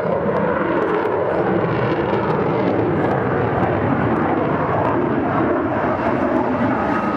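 F-16 Fighting Falcon's jet engine running loud and steady as the fighter flies over the air show.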